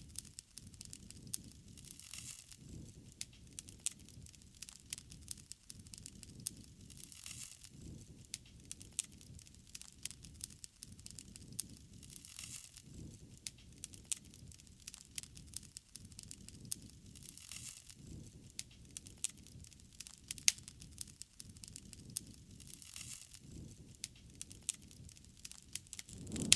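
Bonfire crackling, with frequent sharp pops and snaps over a low steady rumble of burning.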